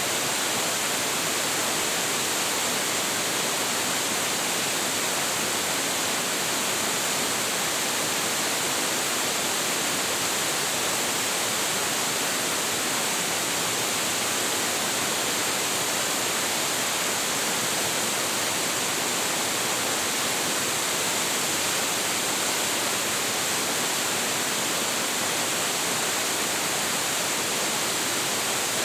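Large waterfall, water falling steadily into its plunge pool as an even, unbroken rush of noise.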